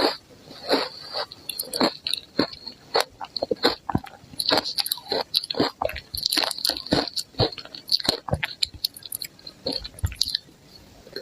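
Close-miked crunching and chewing of ice, many sharp, irregular crackles a second that thin out near the end.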